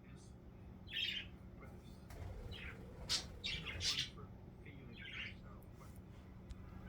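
Pet budgies (parakeets) chirping and squawking in short separate calls, several close together about three to four seconds in.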